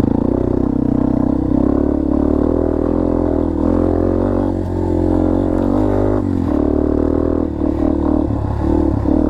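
Dirt bike engine running at low to moderate revs while being ridden, its pitch rising and falling with the throttle, with a brief drop in revs about six seconds in.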